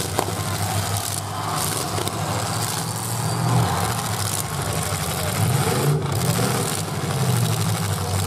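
Demolition derby cars' engines running and revving in uneven swells, with a short sharp crack just after the start.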